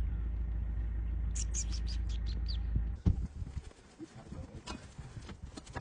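A small bird chirping six or seven times in quick succession over a steady low rumble of wind on the microphone. About three seconds in, the rumble and chirps cut off abruptly, followed by a single knock and fainter scattered sounds.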